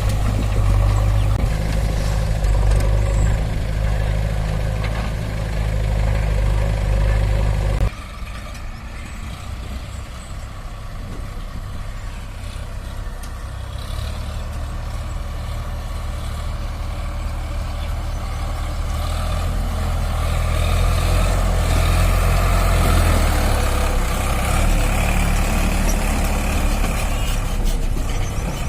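Sonalika DI 47 RX tractor's diesel engine running steadily. About eight seconds in it suddenly drops in level, then grows gradually louder again.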